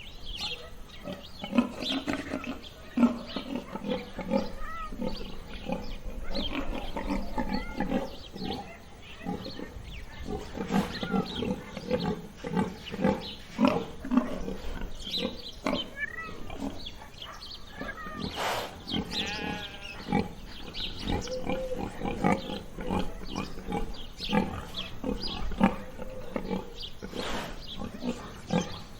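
Pigs grunting and squealing, many short calls in quick succession, with one louder squeal about two-thirds of the way through.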